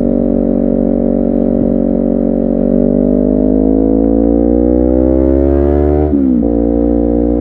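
Honda CBR250RR's parallel-twin engine running steadily, then accelerating with a smoothly rising note from about three seconds in. Just past six seconds the pitch drops sharply on an upshift, then picks up again.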